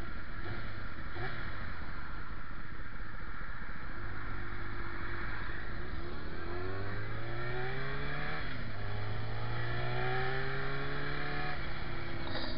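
Motorcycle engine accelerating: its pitch rises from about six seconds in, drops at a gear change about two seconds later, climbs again, then falls back near the end, over a steady rush of wind and road noise.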